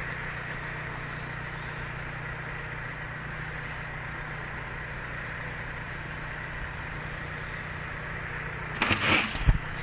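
Steady machine hum, with a brief clatter of knocks about nine seconds in.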